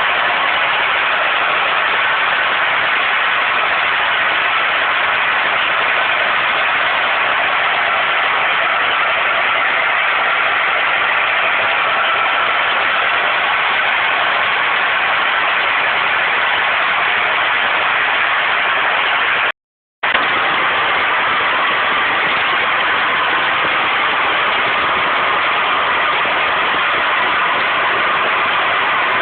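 Gas jetting at high pressure from an open well blowout: a loud, steady rushing hiss that does not change. The sound cuts out completely for about half a second some two-thirds of the way through.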